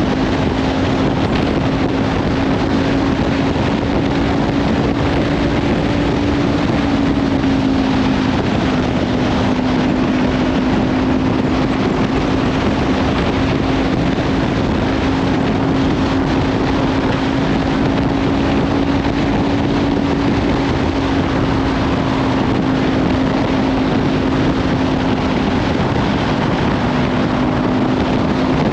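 Kawasaki Ninja 500 parallel-twin engine with a Leovince slip-on exhaust, cruising at steady revs, under heavy wind noise on the microphone. The engine note rises a little about six seconds in, dips briefly a couple of seconds later, then holds steady.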